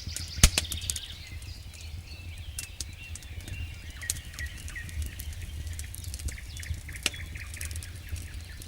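Wood fire burning in a fireplace, crackling with many small snaps and sharp pops, the loudest pop about half a second in and another about seven seconds in, over a steady low rumble of the flames.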